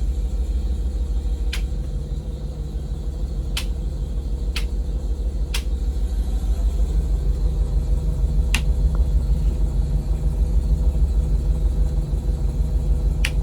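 Blue Bird Vision school bus engine idling with a steady low rumble, with six sharp clicks of the driver's dash switches spread through it.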